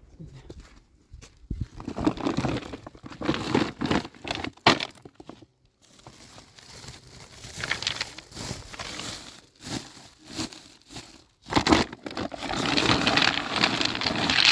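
Irregular bursts of rough, crinkly handling noise with a few sharp knocks, as of materials being worked by hand.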